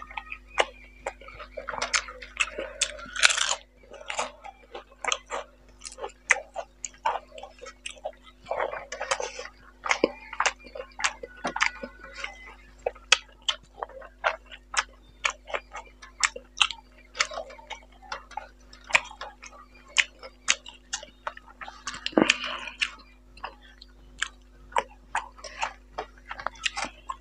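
Close-miked chewing of rice and fish curry: a steady run of sharp lip-smack and mouth clicks, about two a second, with a few softer rustling stretches.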